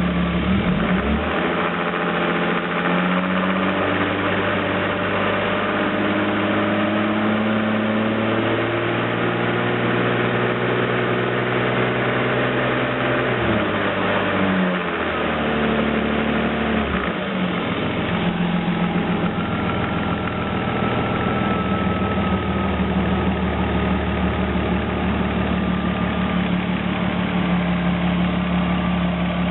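BMW 325i race car's straight-six engine idling, then its revs climbing slowly for about twelve seconds before dropping back. After a shorter second rise it settles to a steady idle.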